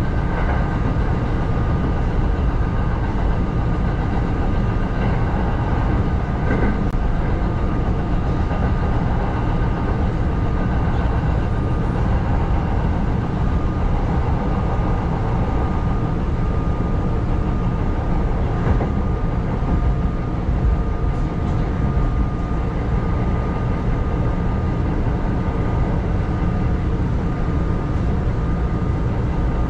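Kintetsu 7000-series electric train running steadily along elevated track, heard from inside the cab: an even rumble of wheels on rail with a faint steady high tone above it.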